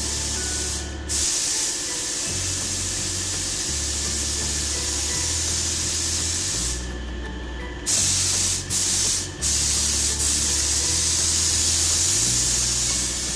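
Gravity-feed compressed-air paint spray gun hissing as paint is sprayed onto a car's rear quarter panel. The hiss stops briefly a few times: once about a second in, for about a second around seven seconds, and twice in quick succession soon after.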